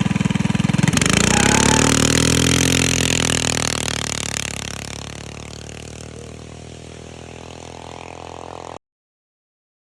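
Coleman mini bike's 460cc single-cylinder engine revving hard as the big rear tire spins, with a hiss of rubber over the engine for the first few seconds. Then the revs and loudness fall away to a lower, steadier running before the sound cuts off abruptly near the end.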